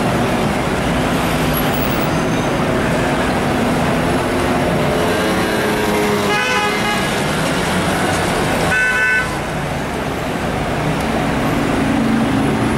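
Dense city-street traffic noise with vehicles running, and car horns sounding in pitched blasts around six and nine seconds in.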